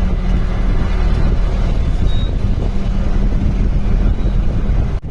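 Safari vehicle's engine running steadily, a loud low rumble with a steady hum.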